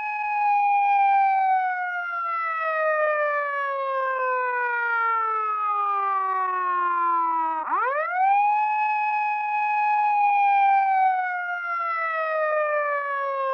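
Police car siren wailing in long cycles. The pitch holds high, then sinks slowly for several seconds, and sweeps quickly back up a little past halfway before it starts to sink again.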